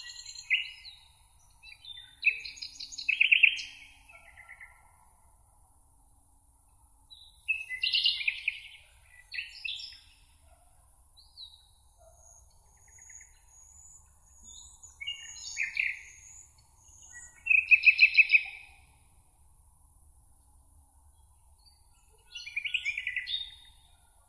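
A songbird sings loud, varied, quick phrases of a second or two, four times, a few seconds apart. Between phrases comes a fainter, thin, high twittering, over a steady high hiss of meadow background.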